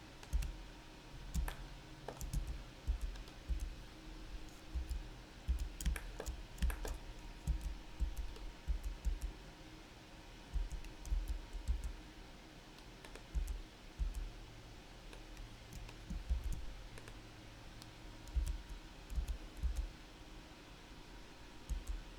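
Irregular clicking of a computer mouse and keyboard keys, with dull low thumps of hands working on the desk.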